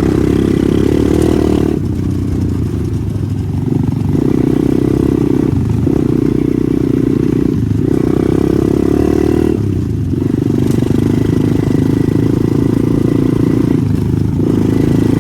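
Pitbike engine running hard under throttle, revving up and easing off again and again, with brief dips in the engine note about every two seconds.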